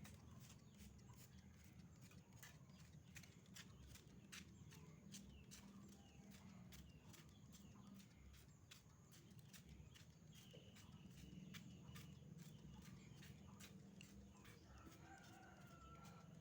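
Hand trigger spray bottle being pumped over and over to soak a caged bird: faint short clicks and spurts of spray, about three a second.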